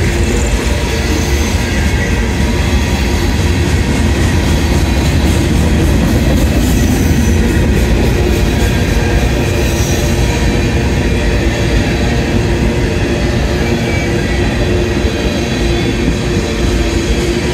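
Freight cars of a mixed manifest train (coil cars, covered hoppers and tank cars) rolling past close by: a loud, steady rumble of steel wheels on rail, with a couple of faint high wheel squeals midway.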